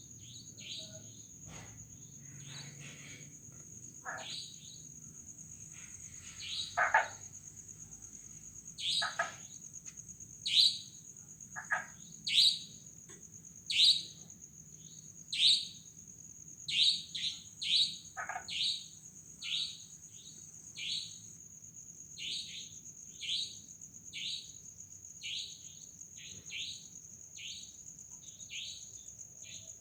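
Night chorus of crickets, frogs and a night bird: a steady high cricket trill runs throughout, under a string of short loud calls that each fall in pitch, repeated about every second and a half, with a few lower calls mixed in.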